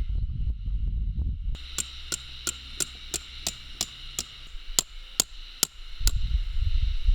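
Hammer driving a metal tent peg: about a dozen sharp, ringing strikes, roughly three a second, stopping about two-thirds of the way through.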